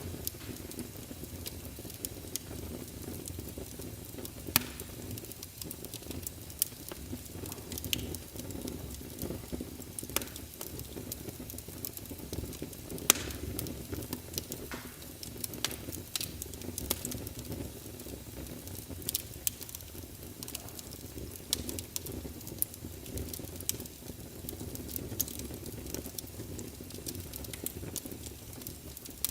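Wood fire in a fireplace burning with a steady low rumble and hiss, and irregular crackles and sharp pops.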